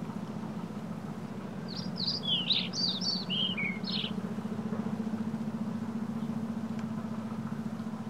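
A songbird sings a quick burst of about a dozen short, downward-sliding chirps, starting about two seconds in and lasting about two seconds, over a steady low hum.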